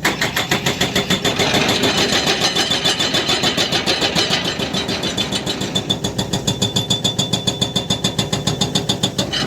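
Excavator's hydraulic breaker hammering rock in rapid, even blows, about seven a second, with a metallic ring from the chisel; the hammering stops suddenly at the end.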